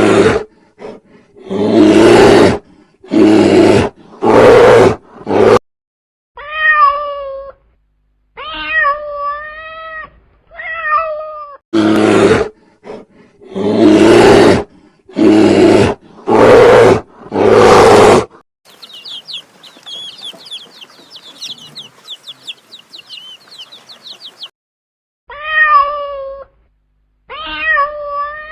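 Kitten meowing in short rising-and-falling calls, usually three at a time. These alternate with runs of loud, rough animal calls about a second apart, and a stretch of fast, high chirping.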